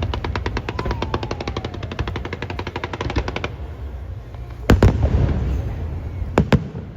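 Fireworks display: a rapid run of sharp crackling pops for about three and a half seconds, with a faint falling whistle among them, then a loud boom about five seconds in and two quick bangs near the end.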